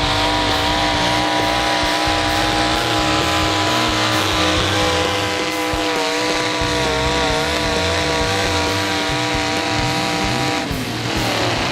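Pulling tractor's engine running hard at high, steady revs under load, its pitch wavering slightly, then falling away near the end as the engine winds down.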